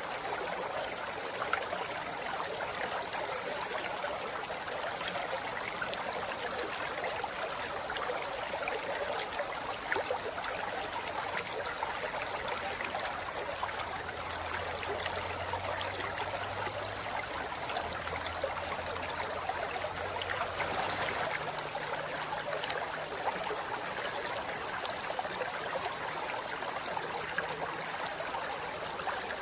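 Forest river flowing over rocks: a steady rush of water with many small splashes and gurgles.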